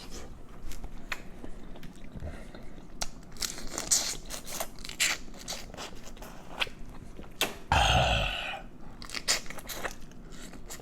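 Close-miked eating: biting into and chewing seafood, with irregular wet mouth clicks throughout and a louder, second-long wet mouth noise about eight seconds in.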